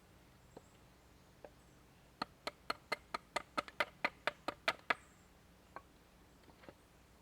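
A quick, even run of about a dozen sharp knocks, about five a second, with a few single knocks before and after.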